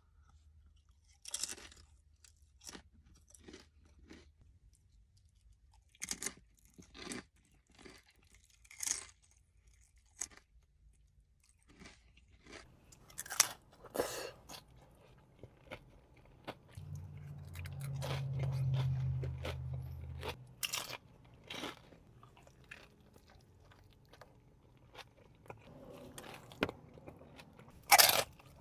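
A person eating close to the microphone: sharp, crisp crunching bites and chewing, in irregular bursts. A low hum lasts a few seconds past the middle.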